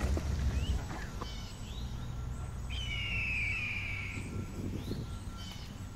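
Birds chirping in short calls, with one longer whistled note, falling slightly, that lasts about a second and a half in the middle, over a steady low rumble of outdoor background noise.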